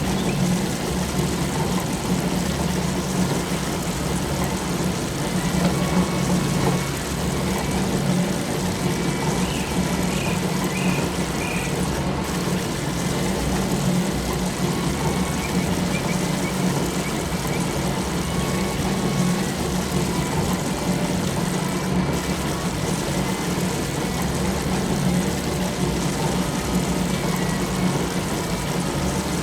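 Large farm machine engine running steadily with an even low hum.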